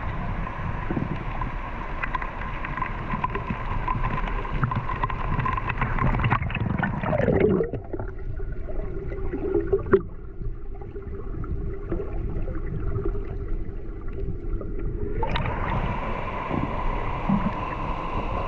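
River water rushing and swirling close by, full of gurgling. About seven seconds in, the sound turns dull and muffled for several seconds, then opens up again.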